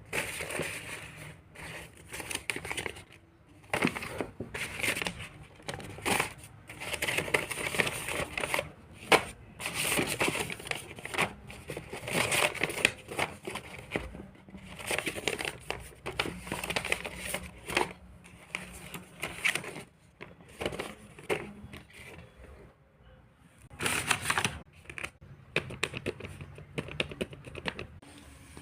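Hands working modelling clay at a work surface: irregular crinkling, squishing and rustling, broken by sharp taps and clicks of tools or fingers on the table, with a brief lull about two-thirds of the way in.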